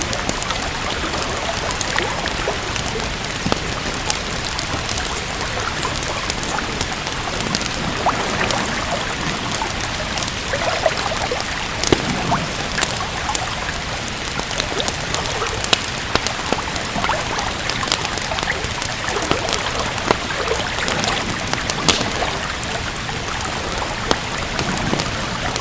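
Steady rain falling, mixed with a fireplace crackling: a dense run of small sharp pops and clicks over the even hiss, with a few louder snaps.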